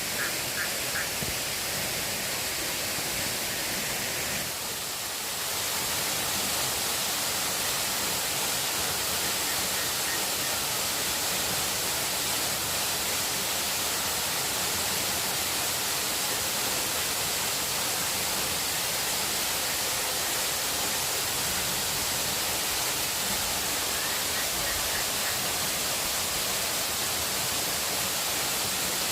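Steady, even rushing noise of water. It dips briefly about four seconds in, then carries on a little louder.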